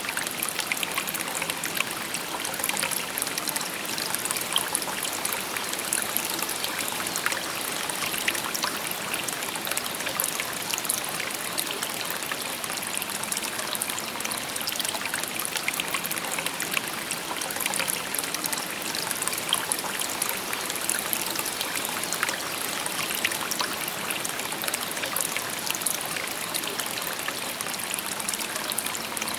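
Shallow river stream babbling over stones: a steady trickling, splashing flow.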